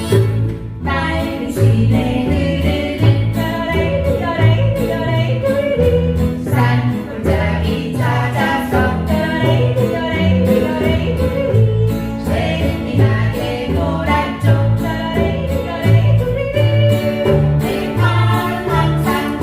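A group singing a song over instrumental accompaniment with a steady, rhythmic bass line; the voices come in about a second in.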